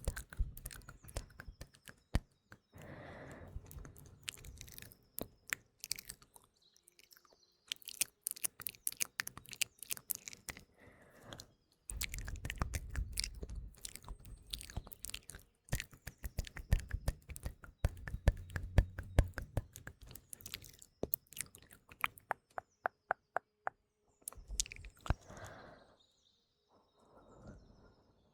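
ASMR mouth sounds close to the microphone: quick, irregular wet clicks and smacks in clusters, with some breathy stretches between them. Faint birdsong chirps behind.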